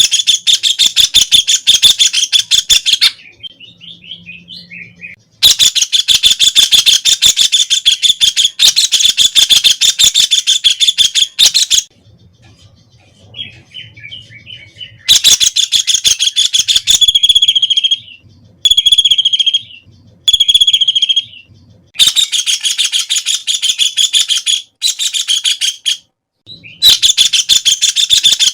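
White-throated kingfisher (Halcyon smyrnensis) calling a loud, fast chattering trill in bouts of several seconds, broken by short pauses, with three brief bursts about two-thirds of the way through.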